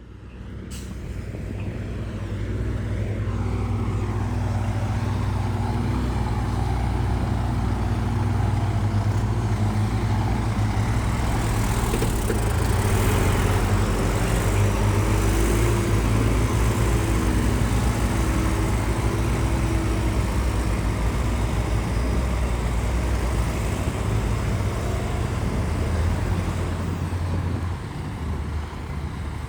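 Heavy diesel engine of an earthmoving machine running steadily under load. It fades in over the first few seconds.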